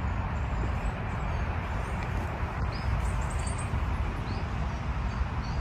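Outdoor ambience: a steady rumbling hiss, with faint, short, high bird chirps scattered through it.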